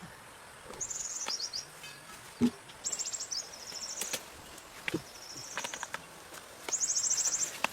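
High, rapidly pulsed chirping trill from a small animal, repeated four times in short bursts of under a second each. A few sharp knocks fall between the trills.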